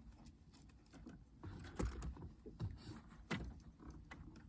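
Fishing reel and line being handled: scattered light clicks and rustles, with two sharper knocks, one a little under two seconds in and one past three seconds.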